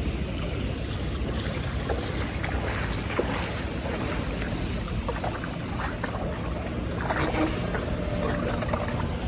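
Floodwater rushing steadily through a cleared drain or culvert, with scattered small splashes and knocks.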